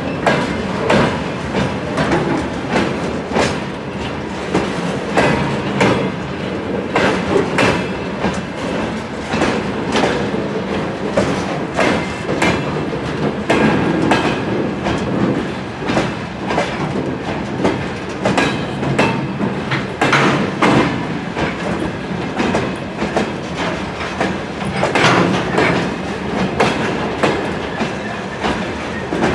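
Train wagons rolling past, their wheels clacking over rail joints in a continuous run of sharp clicks over a steady rumble.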